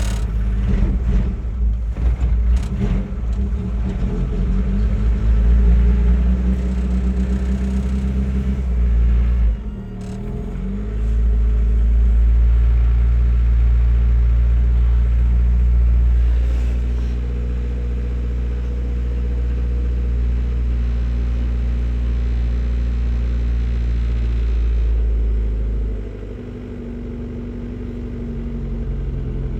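Suzuki Samurai engine running after a cold start in −26 degree cold, a steady low engine sound. About a third of the way in it briefly dips, then settles at a louder, steady run, and near the end it drops back to a quieter, lower running.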